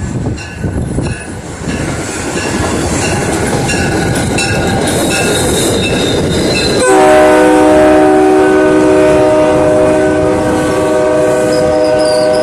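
MBTA commuter rail locomotive and its cars rumbling along the track with wheel clicks. About seven seconds in, the locomotive's horn starts suddenly with a loud, held chord of several notes.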